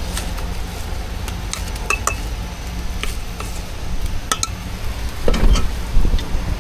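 Cooking utensils clinking and tapping in scattered light strikes over a steady low hum, with a few duller knocks near the end.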